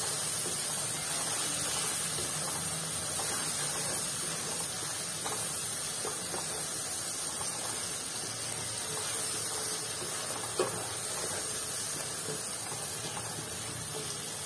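Onion-tomato masala frying in oil in a nonstick kadai as it is stirred with a spatula, giving a steady sizzling hiss; the masala is being roasted with salt, turmeric and chilli powder until the tomato breaks down. One sharp knock comes about ten seconds in.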